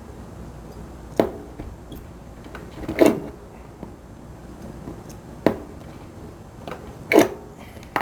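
Eyelets being set into a leather steering boot with an eyelet setting tool: four sharp knocks, roughly one every two seconds, each with a short ring.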